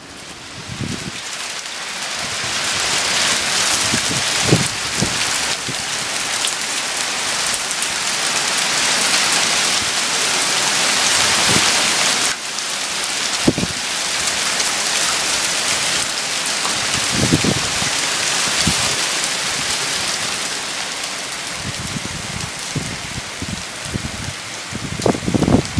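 Heavy hail pelting down on hard surfaces: a dense, steady hiss that builds over the first few seconds, with scattered low thumps.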